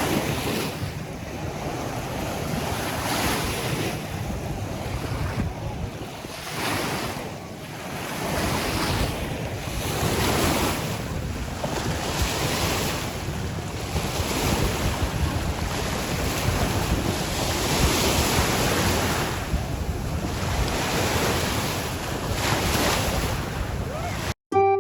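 Wind buffeting the microphone over lake water washing, swelling and fading every second or two; it cuts off suddenly just before the end.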